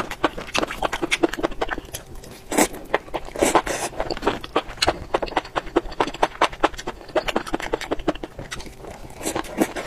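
Close-miked wet chewing of chili-sauced enoki mushrooms: quick mouth clicks and smacks several times a second. A few louder bursts come about three to four seconds in.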